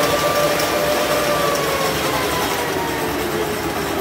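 A rail vehicle running with a steady low rumble and a faint whine that slowly sinks in pitch.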